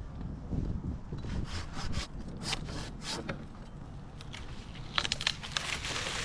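Silky pull saw cutting through a red maple branch: short rasping strokes, about two a second, in two runs with a pause between.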